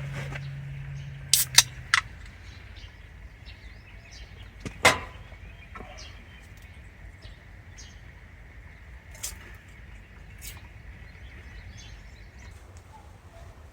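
Outdoor ambience: a steady low wind rumble on the microphone, with scattered sharp clicks and pops, the loudest about five seconds in, over a faint steady high hiss.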